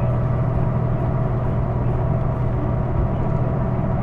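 Hino Blue Ribbon II city bus running, heard from inside the cabin: a steady low engine drone with a steady higher whine above it. The bus is known for an abnormal running noise.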